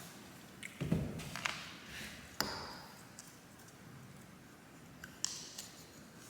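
Metal engine parts handled on a workbench: a dull thud about a second in, a few lighter knocks, and one sharp metallic clink that rings briefly.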